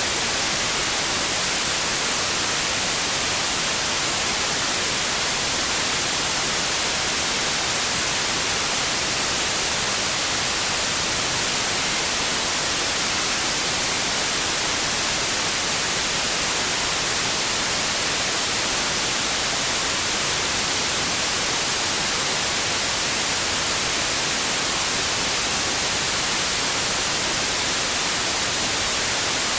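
Steady white noise: an even, unchanging hiss with no other sounds.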